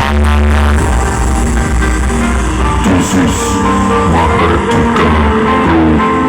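Music with a singing voice and heavy bass, played loud through a large eight-subwoofer sound system during a sound check.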